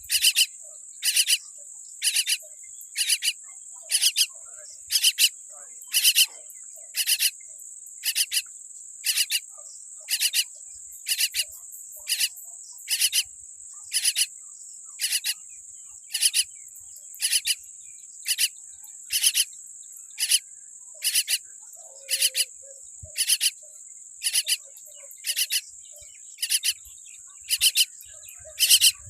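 A myna chick calling with short, harsh cries repeated evenly about once a second, over a continuous high-pitched insect drone.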